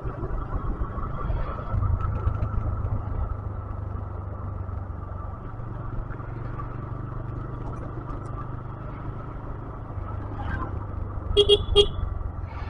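Motorcycle running steadily with road and wind noise, then two quick horn toots about a second before the end.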